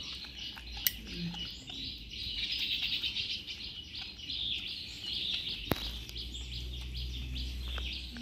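Small birds chirping steadily in the background, with two sharp clicks, about one second and five and a half seconds in.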